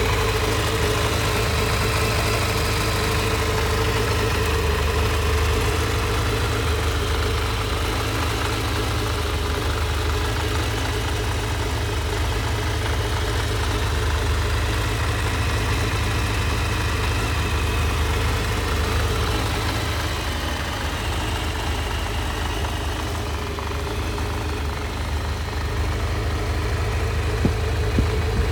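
Kawasaki Zephyr 750's air-cooled inline-four engine idling steadily. It has covered 102,832 km, and the seller says it runs well.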